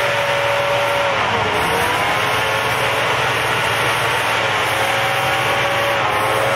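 Off-road 4x4's engine running over a steady noisy rush, with a thin whine that dips in pitch about a second in and then levels off.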